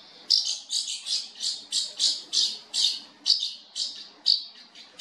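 A bird giving a run of short, harsh, high squawks, about three a second.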